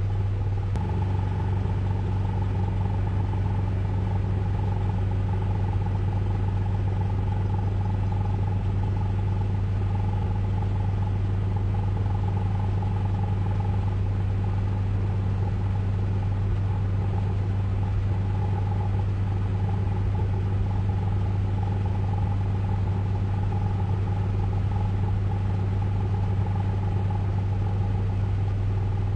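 Steady low mechanical drone of Ryko Radius automatic car wash equipment running, with a strong low hum and a fainter higher tone that hold unchanged throughout.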